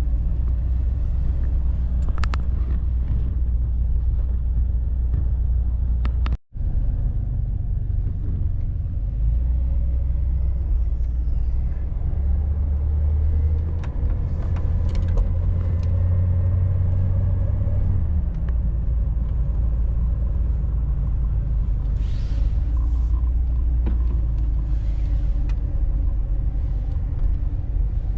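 1989 Chevy G20 van running on the road: a steady low rumble whose pitch shifts a little, with a brief gap about six seconds in.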